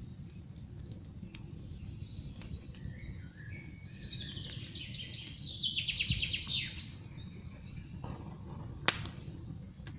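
Campfire crackling with scattered sharp pops over a low steady rumble, with one loud pop near the end. Birds sing throughout; a bird's song in falling trilled phrases about four to seven seconds in is the loudest stretch.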